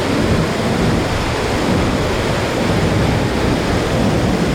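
Steady, loud rush of moving water, a dense even hiss and rumble with no breaks.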